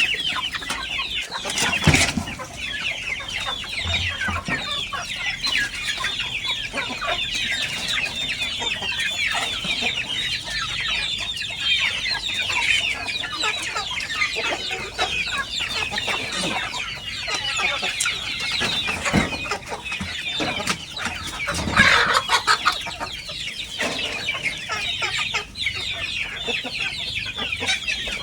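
A large flock of kampung (village) chickens calling continuously, many birds clucking and cheeping over one another, with a couple of louder, sharper moments about two seconds in and again near the end.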